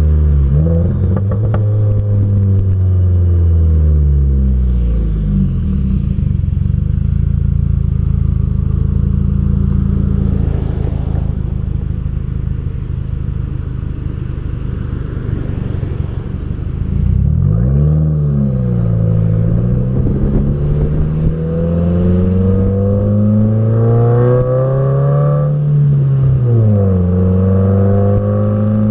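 Exhaust of a 2015 Subaru WRX's turbocharged 2.0-litre flat-four while driving. The engine note falls away over the first few seconds, runs low and steady for a long stretch, then climbs and drops several times as the car accelerates and changes gear, over a haze of road noise.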